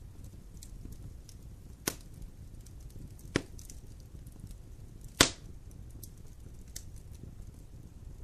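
Wood campfire burning and crackling, with many faint ticks and three sharp loud pops, the last about five seconds in the loudest.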